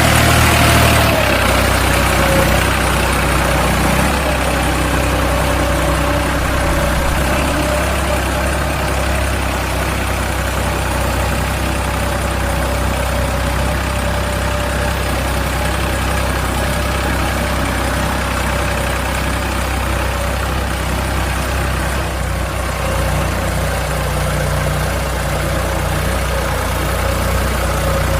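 A motor running steadily with an even drone, its pitch settling slightly lower about a second in.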